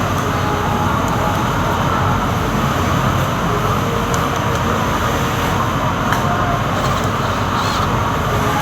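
A steady, loud rumbling noise with no speech, with a few faint ticks.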